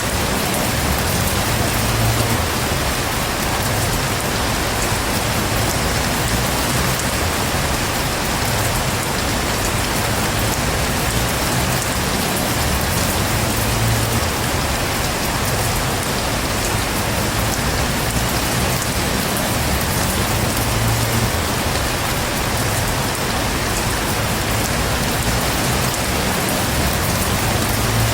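Heavy rain falling steadily, an even, unbroken hiss with no distinct thunderclaps.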